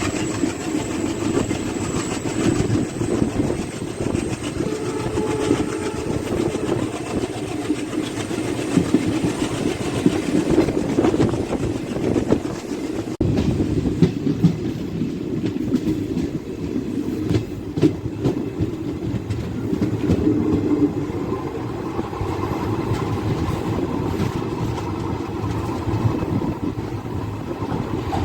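Passenger train running along the line, with a steady rumble and the clickety-clack of wheels over the rail joints.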